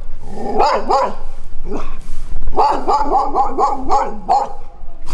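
A dog barking repeatedly: a few barks, then a quick run of barks in the middle, then another.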